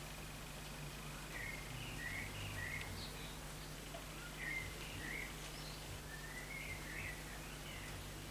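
Faint, scattered chirps of small birds, a dozen or so short calls bending in pitch, over a steady low electrical hum.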